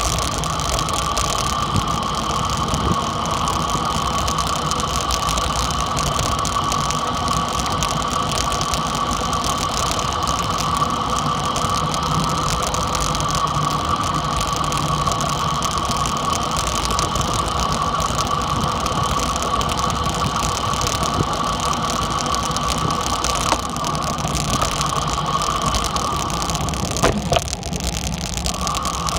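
Dirt bike engine running steadily during a ride; its steady whine drops away briefly near the end, then picks up again.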